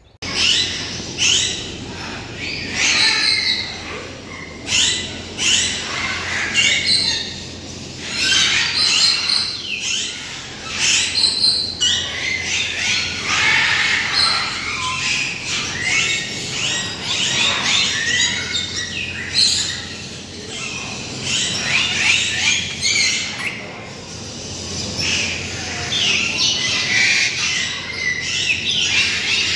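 Many birds calling at once: a dense chorus of squawks and chirps that overlap continuously, starting abruptly.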